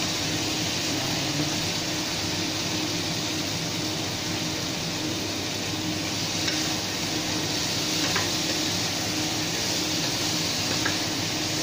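Okra sizzling steadily in a nonstick frying pan while it is stirred with a wooden spatula, with a few faint taps of the spatula against the pan. A low steady hum runs underneath.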